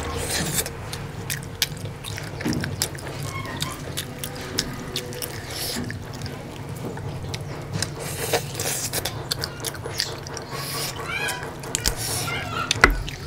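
Close-miked eating: meat being bitten and chewed off the bone, with wet, smacking mouth sounds and many sharp clicks.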